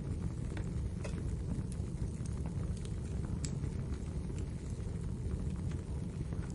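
Wood fire crackling in a fireplace: a steady low rumble of burning, with irregular sharp pops and snaps scattered through.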